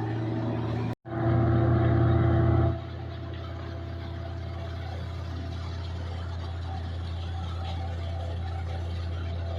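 Combine harvester's engine running with a steady drone. It cuts out for an instant about a second in, comes back louder for about a second and a half, then settles to a steady, quieter drone.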